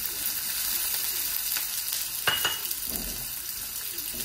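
Chopped onion and garlic cloves sizzling in hot olive oil in a nonstick pan while a silicone spatula stirs them. A single sharper knock comes a little over two seconds in.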